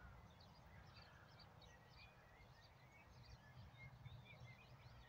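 Near silence outdoors: faint, scattered chirps of small birds over a low, steady rumble.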